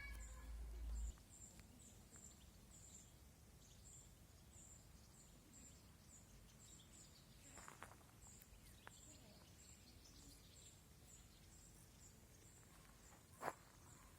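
Quiet outdoor ambience with a faint, high chirp repeating evenly about two to three times a second. There is a low wind rumble on the microphone in the first second, and a single sharp click near the end.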